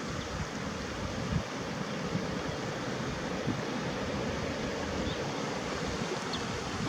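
Steady rushing noise of wind and lake water, with a couple of faint high chirps near the end.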